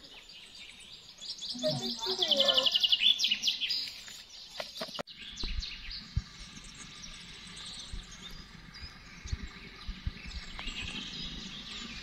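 Songbirds singing: a loud, fast trill of repeated high chirps in the first few seconds, then fainter scattered chirping over a steady background hiss.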